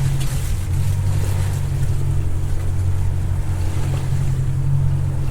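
Motorboat engine running steadily under way, a constant low drone, with wash of water and wind over it.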